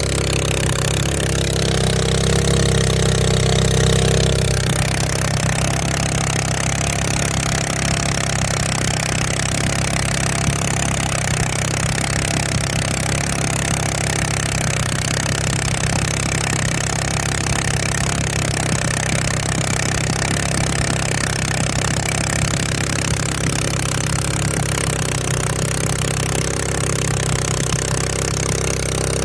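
Honda GX200 single-cylinder four-stroke engine driving a sampan boat, running steadily at an even pitch, a little louder for a couple of seconds near the start.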